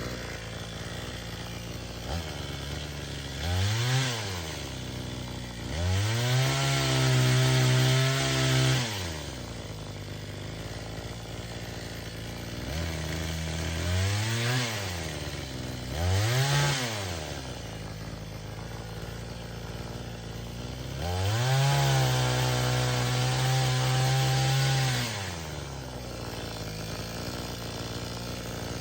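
Cheap two-stroke gas chainsaw idling, then revved up and down. It gives short blips of throttle and twice holds full throttle for about three seconds, dropping back to idle in between, in the manner of making cuts.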